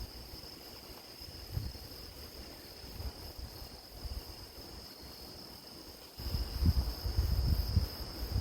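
Grass insects chirring in a steady high-pitched drone. Wind rumbles on the microphone under it, growing much louder about six seconds in.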